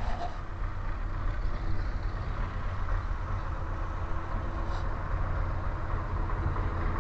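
Motorcycle engine running at a steady pace while riding, a deep rumble with an even rush of road and wind noise. There is one brief click about five seconds in.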